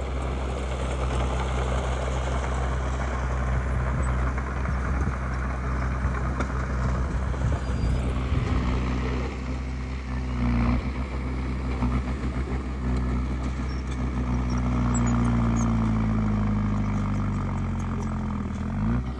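Heavy diesel engine of earthmoving machinery running steadily. Its pitch sags gradually over the last few seconds, as if under load, then rises sharply right at the end.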